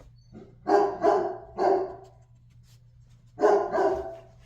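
A puppy barking: three barks in quick succession, then a pause, then two more.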